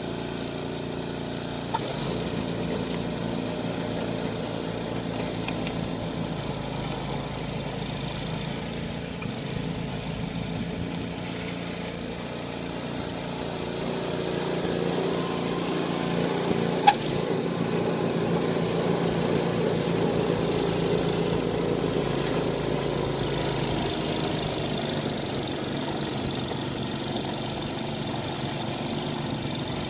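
Snowblower engine running steadily, getting louder for a stretch in the middle as it works, with two sharp clicks, about 2 s and about 17 s in.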